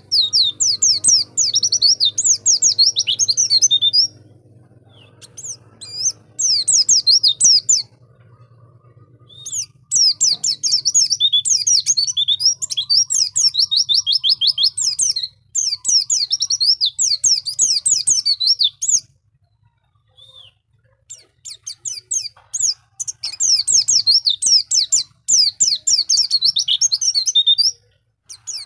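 Pleci (white-eye) singing in rapid, high twittering bursts of quick down-sweeping notes. The song comes in several bouts of a few seconds each, with short pauses between them.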